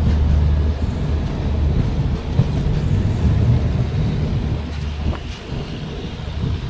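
Running noise of a moving express passenger train: a steady low rumble from the wheels and track, with a few faint clicks.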